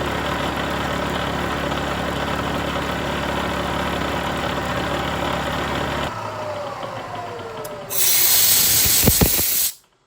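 Milling machine running with a dull 1/4-inch two-flute end mill taking a light finishing pass, an end mill the machinist takes to be junk and not sharp. About six seconds in the motor is switched off and the spindle winds down with a falling whine. Near the end comes a loud blast of compressed air that stops suddenly.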